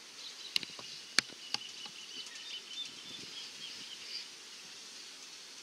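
A small bird twittering in a thin, high chatter that runs until about four seconds in. Three sharp clicks come near the start, the loudest about a second in, over a faint background hiss.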